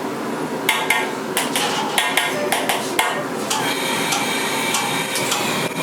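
Metal cookware clanging: a series of sharp, irregular metal-on-metal strikes with a short ringing tail, beginning about a second in, over a steady background hum.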